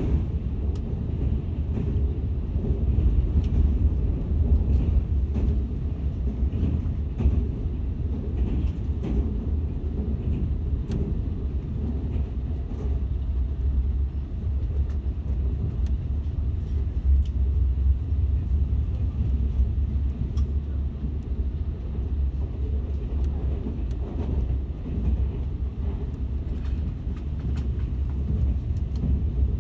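Steady low rumble of a moving KTX passenger train, heard from inside the carriage as it runs along the track.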